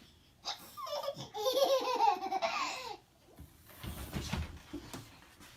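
Laughter, high-pitched like a small child's, in a wavering run lasting about two and a half seconds, followed by a few soft low knocks.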